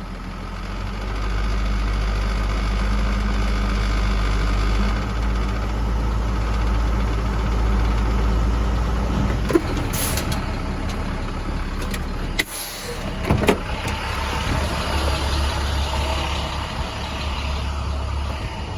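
Box truck running with a steady low hum, its sound shifting about halfway through, with a few sharp knocks or clanks around the middle.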